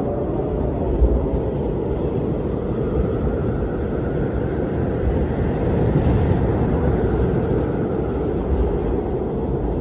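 Howling wind: a steady deep rushing rumble with a fainter whistle that slowly rises and falls in pitch, and a short low gust about a second in.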